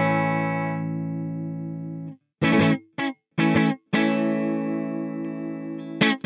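Electric guitar with single-coil pickups played through a Peace Hill FX TR tube preamp. A chord rings and fades for about two seconds, then comes a cut-off silence, a few short stabbed chords, and another chord held for about two seconds.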